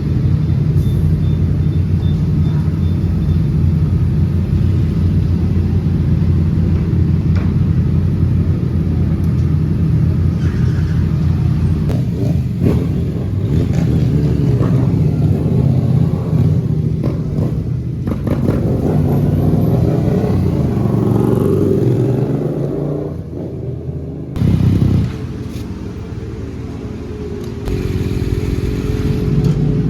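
Sport motorcycle engines running with a steady rumble and a few revs that rise and fall past the middle. The sound drops back in the last third, with a short loud rev about 25 seconds in.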